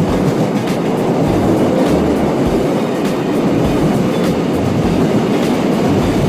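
Loud, steady rumbling noise that starts abruptly, with background music underneath.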